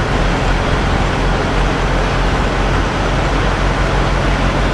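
Steady vehicle engine noise: a constant low hum with road-traffic noise.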